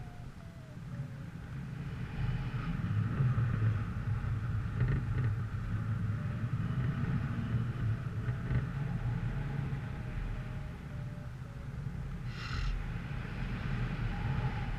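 A motor vehicle running with a steady low rumble, likely with wind on the microphone. About twelve seconds in there is a brief high squeak.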